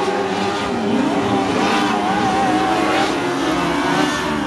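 Several sidecar racing motorcycles running hard around the track together, their engines overlapping and rising and falling in pitch as they rev and back off.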